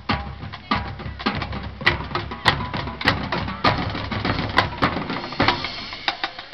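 Marching band percussion playing: a steady run of sharp drum and mallet strikes, with loud accents about every half second over quieter sustained tones.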